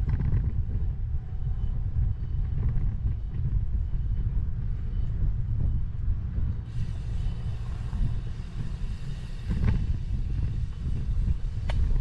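Steady low rumble of wind and riding noise on a bike-mounted 360 camera's microphone while cycling, with two sharp clicks near the end.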